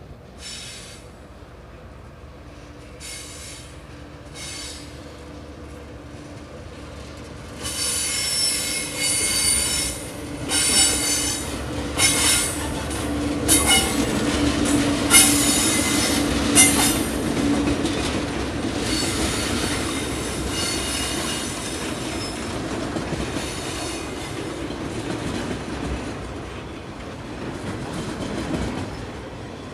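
TasRail diesel locomotives hauling an empty log train draw near with a steady engine drone. The wheels squeal repeatedly and loudly for about ten seconds as the train comes through, then the wagons roll on with a rumble and clickety-clack of wheels over rail joints.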